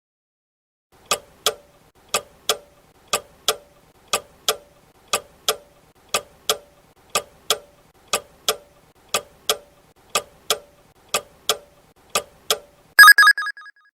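Clock tick-tock countdown-timer sound effect, a tick and a tock each second for about twelve seconds, then a short, rapid bell ring near the end that marks the answer time running out.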